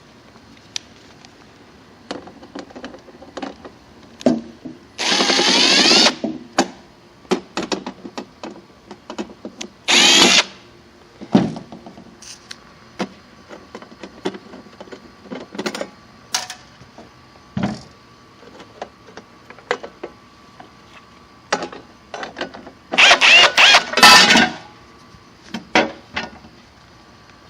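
A power drill-driver spinning in three short bursts of about a second each, with clicks and knocks of tools and parts being handled in between.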